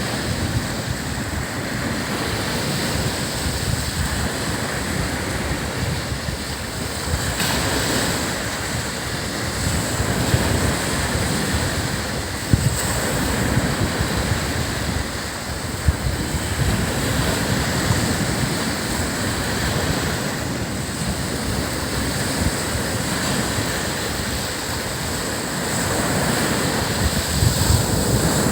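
Ocean surf breaking and washing up on a sandy beach: a steady, continuous wash that swells a little every few seconds.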